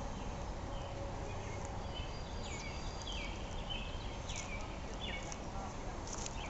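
Small birds chirping: short, high chirps in quick clusters starting about two seconds in, over a steady low background rumble.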